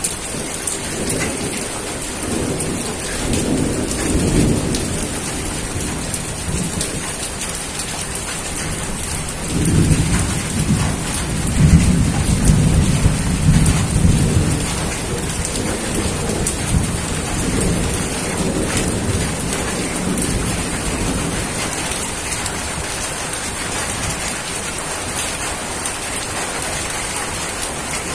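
Steady rain with rolling thunder: a short rumble a few seconds in, then a longer, louder rumble from about ten to fifteen seconds in.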